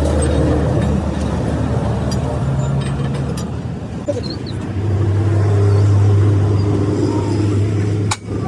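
Road traffic: a vehicle engine running with a low hum that grows louder about five seconds in and eases off again, with a few light clicks and knocks.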